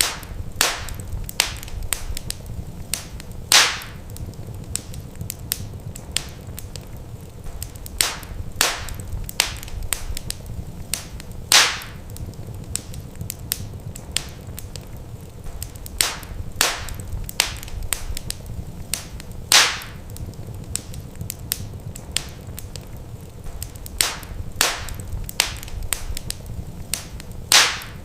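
Wood fire in a fireplace crackling: frequent sharp snaps and pops over a steady low rumble, with a louder pop about every eight seconds.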